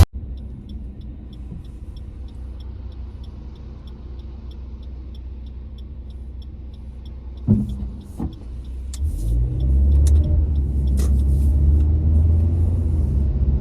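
Car heard from inside the cabin: a quiet low running hum with a light regular ticking, about two to three ticks a second. A couple of knocks follow about halfway through, then the low rumble of the car moving grows much louder.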